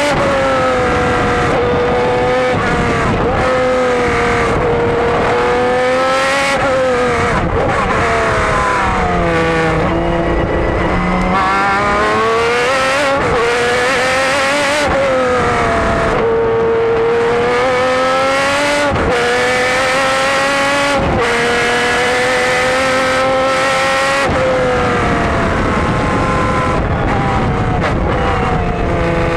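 Jaguar XJR-12 race car's V12 engine at racing speed, heard from on board. The revs climb and fall again and again, with short sharp breaks every few seconds as it shifts gear and lifts for corners.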